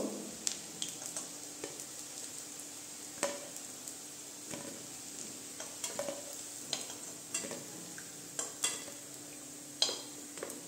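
Pea and moong dal fritters frying in hot mustard oil in a metal kadai, a faint steady sizzle. A spatula clicks and scrapes against the pan at irregular moments as the fritters are lifted out.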